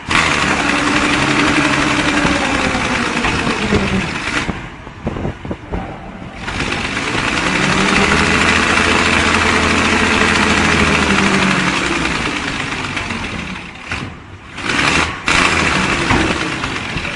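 An engine running under a loud rushing noise, its pitch rising and then falling in two long swells.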